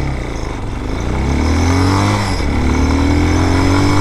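Air-cooled 250cc dirt bike engine accelerating: its pitch climbs, dips briefly about two seconds in as it shifts up a gear, then climbs again.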